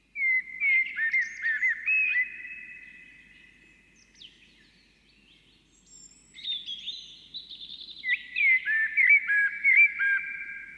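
Birdsong: bouts of short whistled chirps and trills, with a near-quiet pause in the middle.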